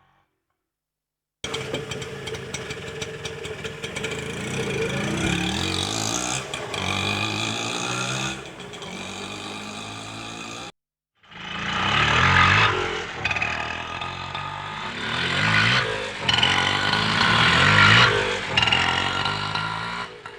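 Auto rickshaw engine running, in two separate recordings with a brief gap between them. The second recording is louder, with the engine revving up and dropping back several times.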